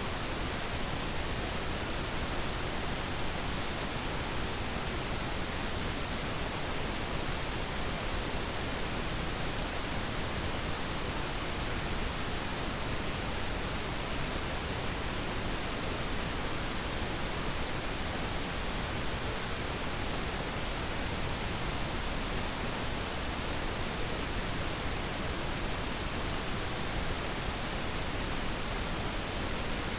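Steady pink noise: an even, unchanging hiss with no breaks or other sounds.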